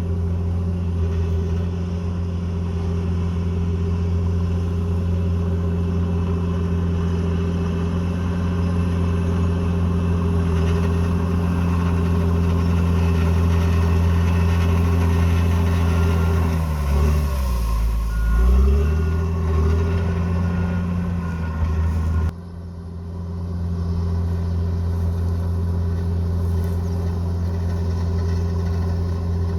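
Diesel engine of a bulldozer running steadily at working revs. About two thirds of the way through, its pitch sags down and climbs back up. A faint beeping is heard at the same time. Shortly after, the sound drops off abruptly, then the steady engine sound comes back.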